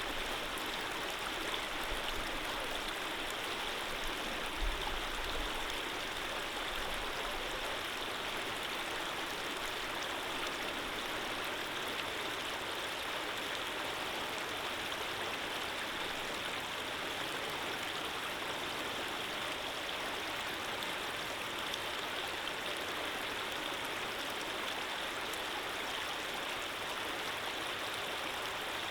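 Running water of a small stream, flowing steadily with an even rushing sound.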